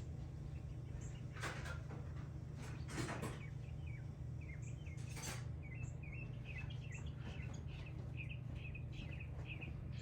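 A small bird chirping in a quick run of short, wavering notes through the second half, over a steady low hum. In the first half there are three short scraping knocks, typical of tools being handled during the work on the car.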